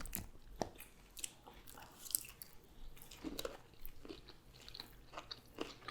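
Person chewing food close to the microphone: faint, scattered wet smacks and clicks of the mouth.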